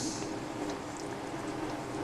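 Steady low hum of computer fans, with a couple of faint small ticks.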